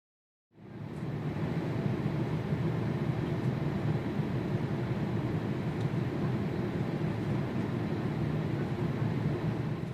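Steady, dense rumble of a jet aircraft's engines that fades in about half a second in and then holds level.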